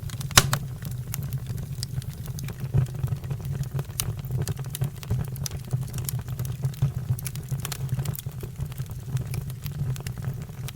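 Wood fire crackling: a steady low rumble with frequent sharp pops and snaps, a loud pop about half a second in.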